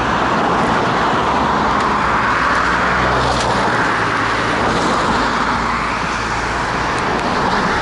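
Road traffic going past close by: a steady rush of tyres and engines that swells and eases as vehicles pass, over a low engine hum.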